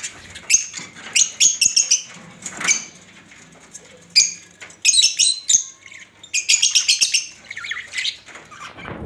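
Budgerigars chirping and chattering in repeated bursts of quick, high chirps.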